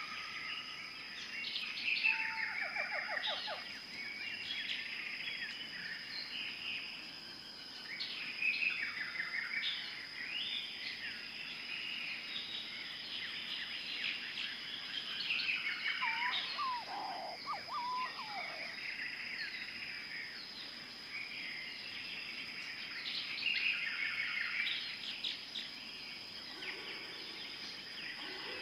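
Several birds singing and calling at once: overlapping chirps and rapid trills, with a lower trill about two seconds in and a few falling whistles near the middle, over a steady high tone.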